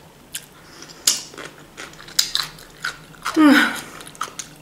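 Person chewing a mouthful of cucumber salad in mayonnaise close to the microphone: a run of short wet crunches and mouth clicks, with a brief voiced hum about three and a half seconds in.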